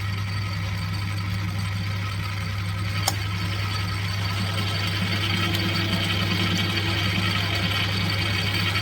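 Metal lathe running with a steady hum while the tool takes light facing cuts across aluminium stock. A single sharp tick about three seconds in.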